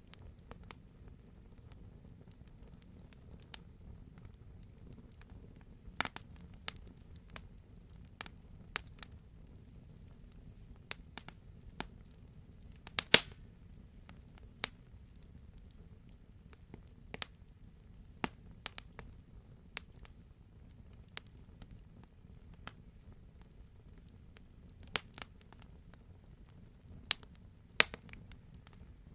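Wood campfire crackling: scattered sharp pops and snaps, irregular and a second or so apart, over a low steady rumble of the burning fire, with the loudest cluster of pops about halfway through.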